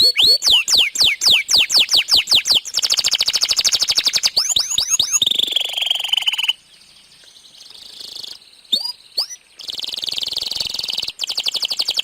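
Domestic canary singing: fast trills of repeated high, down-sweeping whistles and buzzy rolls. About two-thirds of the way in it goes quiet for roughly three seconds, apart from a few short notes, then starts again with a rapid trill.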